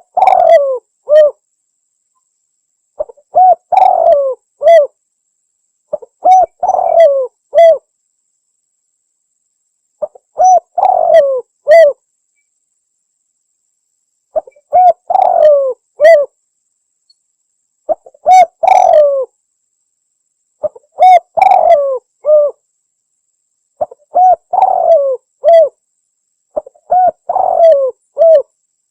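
Spotted dove (tekukur) cooing: its phrase of short lead-in notes and a longer rolling coo is repeated about every three seconds, nine times over, with silence between. This is a lure call used to attract wild doves.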